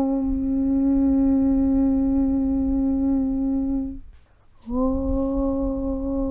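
A long, steady hummed 'Aum' (Om) chant on one low pitch. It breaks off about four seconds in, and a new 'Aum' starts just under a second later.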